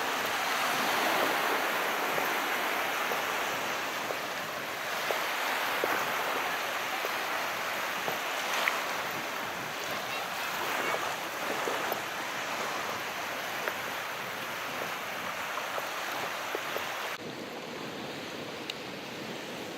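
Calm sea: small waves washing in, a steady hiss that swells and eases every few seconds, with a few faint clicks. The level drops suddenly near the end.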